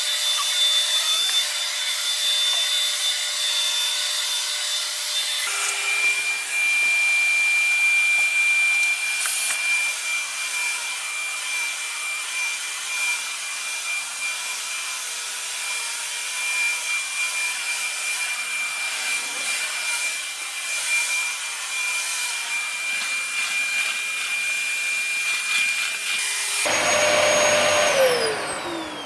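Dyson DC33 upright vacuum cleaner running, a steady motor whine over a rush of airflow. The whine drops to a lower pitch about five seconds in and rises again near the end, then the motor is switched off and winds down with a falling whine.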